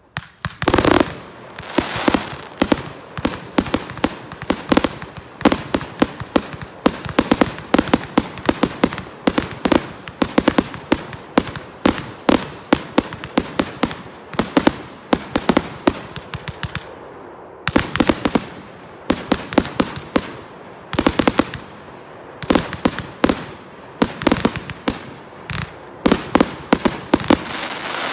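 Amateur fireworks display going off: a dense, rapid run of sharp bangs and crackles, several a second, with two brief lulls in the latter half.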